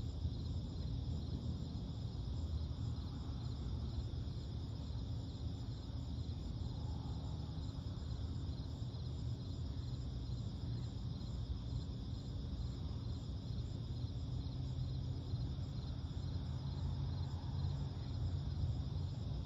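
A night insect chorus of crickets trilling steadily and without pause, over a constant low rumble.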